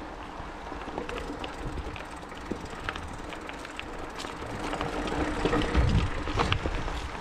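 29er hardtail mountain bike ridden over a dirt trail: tyres rolling on dirt with scattered clicks and rattles from the bike over bumps. A low rumble builds about five seconds in and is loudest around six seconds, then eases.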